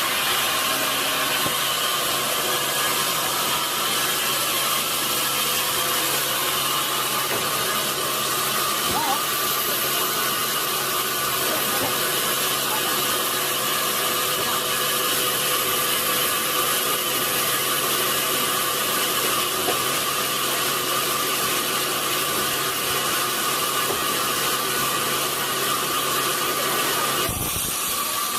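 A large sawmill saw running steadily through a log: a dense hiss with several steady whining tones. Near the end a low hum drops out.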